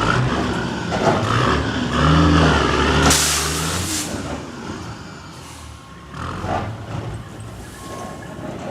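Heavy truck running, with a short, sharp burst of air hiss about three seconds in, after which it goes quieter.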